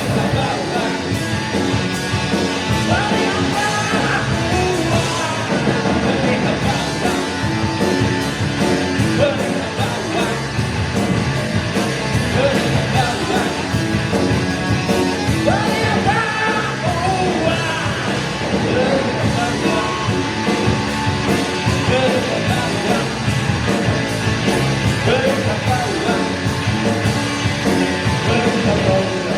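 A live band playing a song with a lead vocal over a steady beat.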